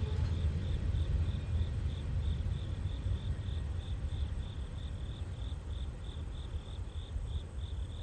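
Low rumble of a loaded coal train rolling by, slowly fading, under an insect chirping steadily at a high pitch, about three to four chirps a second.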